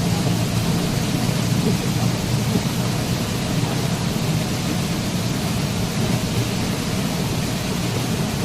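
Waterfall: a steady, unbroken rush of falling water, heaviest in the low, deep range.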